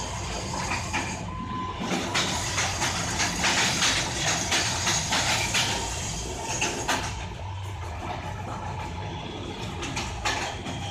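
Train running, heard from inside the carriage: a low rumble with the wheels clattering over rail joints and points in a quick, even run of clicks, which eases off about seven seconds in.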